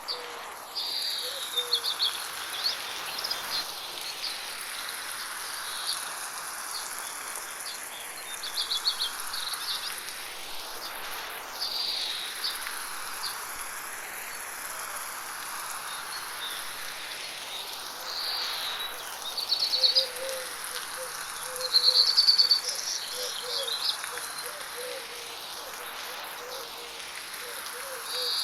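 Light rain falling as a steady hiss, with birds chirping in short rapid clusters every few seconds and a lower chattering call joining about halfway through. The whole soundscape is panned slowly around the listener in 8D audio.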